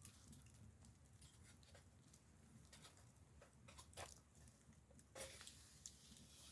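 Faint, scattered small clicks and crackles, a few a second, with a slightly louder pair about four seconds in and again just after five seconds.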